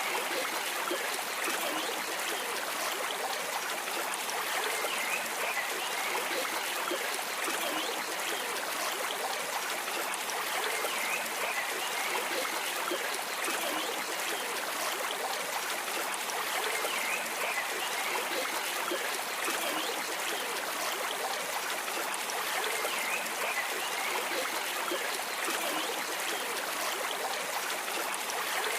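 A stream flowing and trickling steadily.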